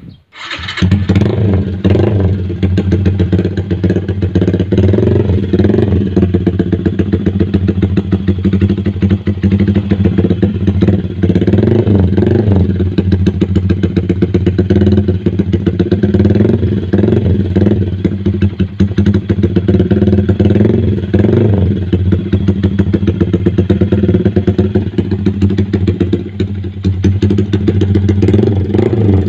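Yamaha MX King 150's single-cylinder four-stroke engine running through an RCB Rob1 aftermarket racing exhaust. It comes in just after the start and then idles loudly and steadily.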